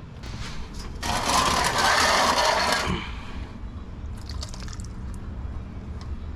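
A spray hissing steadily for about two seconds, starting and stopping abruptly, followed by a few faint ticks of small parts being handled.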